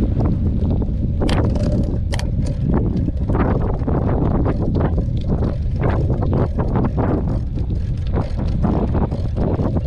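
Mountain bike riding over rough dirt trail: wind buffeting the microphone with a steady rumble, and frequent rattles and knocks from the bike jolting over the ground.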